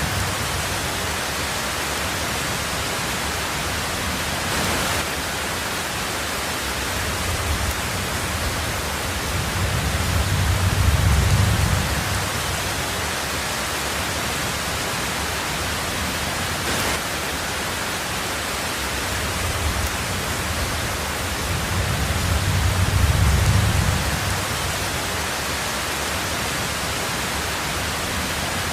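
Heavy rain drumming on a tin roof, a steady dense hiss. Twice a low rumble of thunder swells and fades over a few seconds, about ten seconds in and again about two-thirds of the way through.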